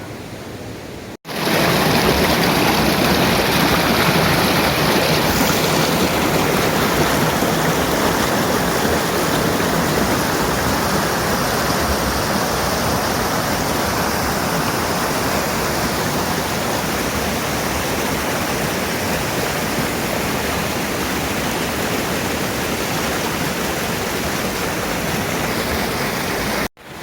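Loud, steady rush of fast-flowing water. It starts abruptly about a second in, after a short quieter stretch.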